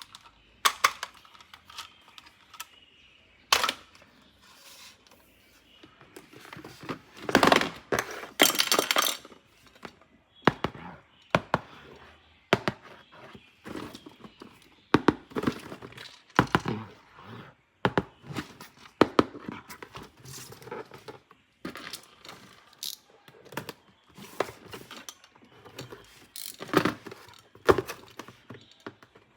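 Toys and their packaging being handled during an unboxing: an irregular run of clicks, knocks and rustles, louder around 7 to 9 seconds in and again near the end.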